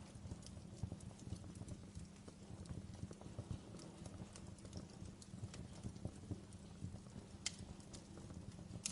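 Wood fire burning in a fireplace: a steady low rumble of flames with irregular crackles and pops from the burning logs, one sharper snap about seven and a half seconds in.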